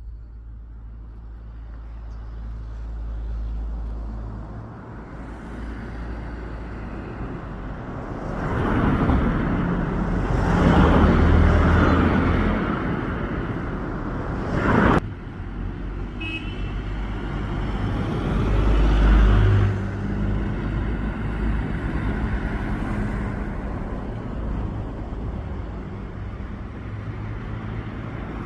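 Road traffic: motor vehicles running past continuously, swelling louder about a third of the way in and again about two-thirds in, with a short horn toot just past the middle.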